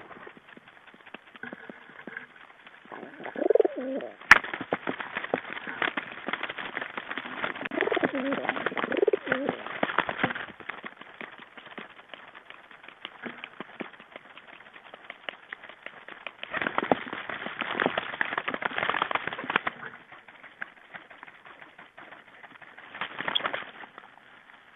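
Birds at a winter feeder: a stream of small clicks and taps, several bursts of rustling noise, and a few low, wavering calls.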